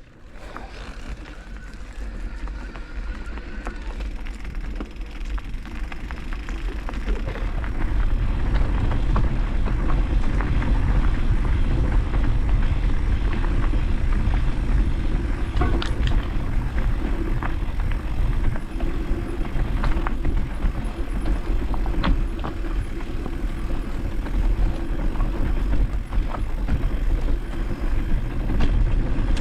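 Motocross motorcycles running, growing louder over the first eight seconds and then staying loud, with a heavy low rumble throughout.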